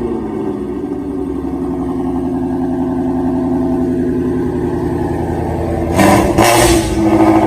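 Exhaust of a 2018 Ford Shelby GT350's 5.2-litre V8 with a Corsa X-pipe and catless long-tube headers, running steadily under light throttle. About six seconds in it opens up loudly on hard throttle for about a second and a half, with a short break in the middle.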